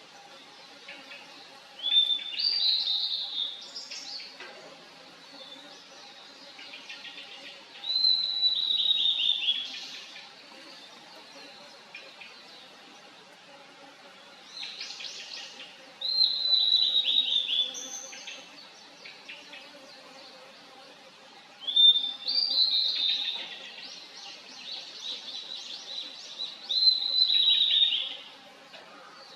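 Blue-and-white flycatcher singing: five loud, sweet phrases of about two seconds each, several seconds apart, each falling in pitch into buzzy rapid notes, with softer song between them. Mosquitoes whine faintly and steadily around the microphone.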